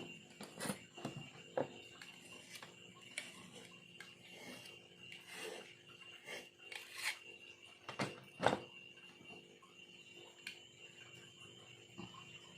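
A carving knife scraping and gouging bamboo, in irregular short strokes with a few sharper knocks, the two loudest about two thirds of the way through.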